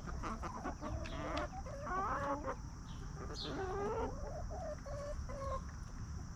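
Free-range chickens clucking, with many short, overlapping calls. A run of brief clucks comes near the end.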